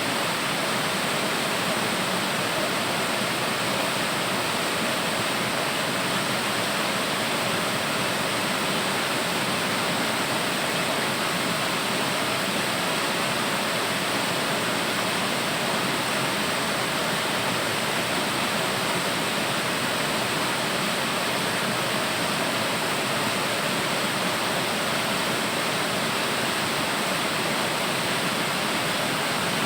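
Waterfall: steady, unbroken rush of falling water.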